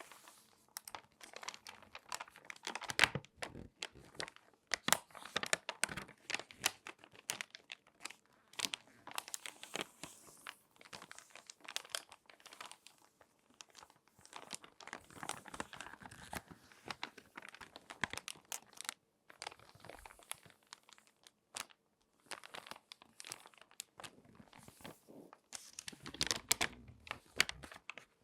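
Crinkly magazine pages being folded and handled: irregular paper crackles and rustles, with louder bursts about three seconds in, around five to six seconds, and again near the end.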